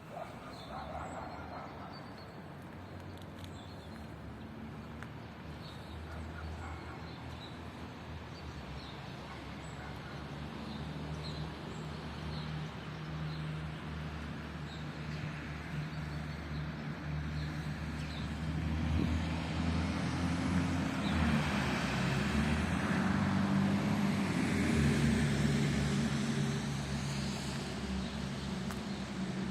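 Steady low traffic rumble with engine hum, growing louder in the second half. Faint, short high chirps repeat about once a second during the first third.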